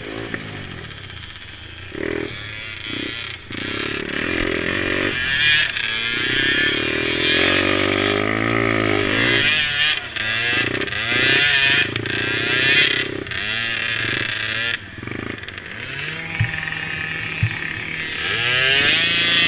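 Small engines of mini quads running and revving up and down repeatedly, their pitch rising and falling.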